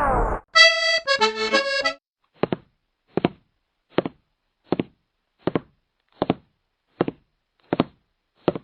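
Cartoon soundtrack: a short musical phrase of held notes, then a steady series of short knocks, about one every three-quarters of a second, nine in all.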